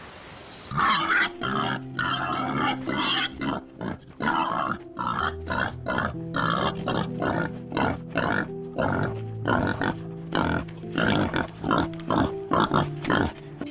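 A string of short, noisy animal calls, roughly two a second, over background music with held low notes.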